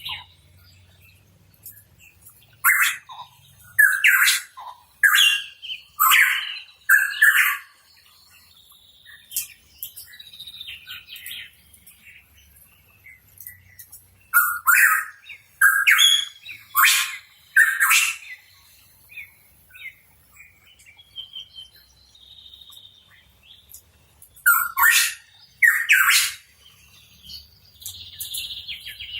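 Pitohui calling in loud runs of short, chirpy whistled notes, repeated in three bursts of two to six notes, with softer calls in between.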